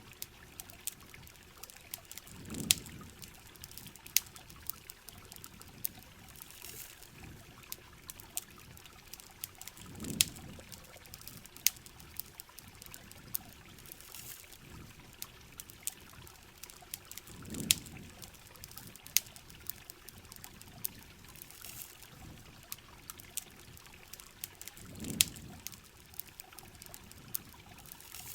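Steady rain and running water with scattered sharp ticks and crackles, the kind a campfire or drops on a shell make. A low rush swells and fades about every seven and a half seconds, four times.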